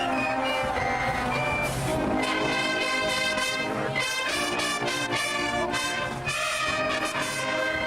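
Marching band brass section playing loud, held chords and short phrases of a tune.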